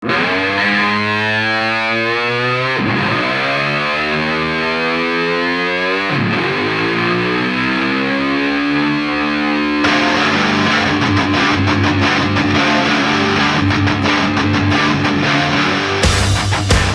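Two-stroke motocross bike accelerating hard: the engine note climbs, drops sharply at two upshifts, climbs again, then holds a steady high pitch.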